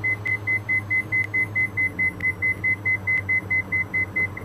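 Cockpit warning tone in a Diamond DA42 twin: a high beep repeating about four times a second over the steady drone of the engines, stopping near the end.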